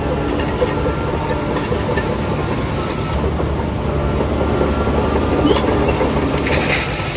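Shantui DH17C3 crawler bulldozer's diesel engine running under steady load with its steel tracks clattering. A short hiss comes in near the end.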